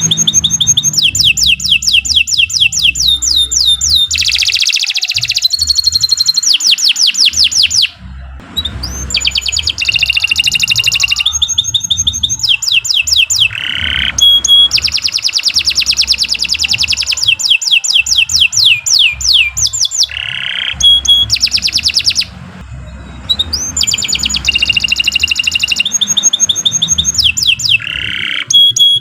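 Domestic canary singing a long song of fast trills: rapid runs of repeated falling notes, high-pitched, in phrases broken by short pauses about 8 and 22 seconds in.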